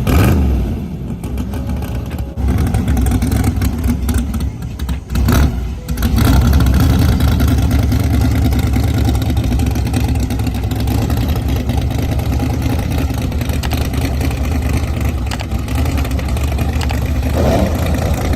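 Car engine just fired up: after a few short blips, it settles from about six seconds in into a steady, loud low rumble at idle, with a brief rev near the end.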